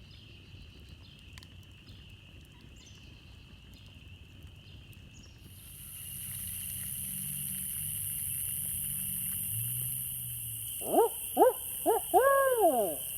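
An owl hooting near the end: a short series of hoots, the last one longer and falling away. It sounds over a steady high trill of night insects, with a higher insect buzz joining about halfway.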